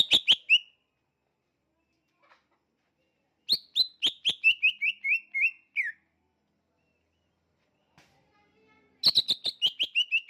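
Cucak ijo (green leafbird) from Kalimantan singing in repeated phrases. Each phrase is a quick run of short whistled notes, about five a second, stepping down in pitch. Three phrases come a few seconds apart.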